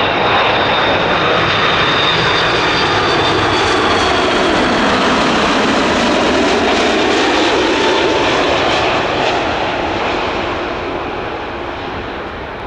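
Airbus A330-200 airliner's twin jet engines passing close on landing approach: a loud rush of jet noise with a high fan whine. It fades away over the last few seconds as the aircraft moves off.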